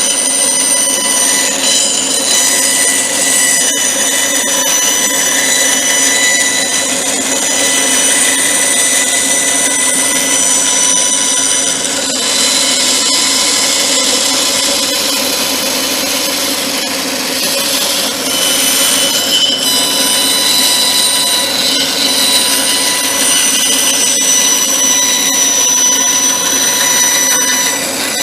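Electric power tool running continuously with a steady high whine. Its sound shifts for several seconds about halfway through, then settles back.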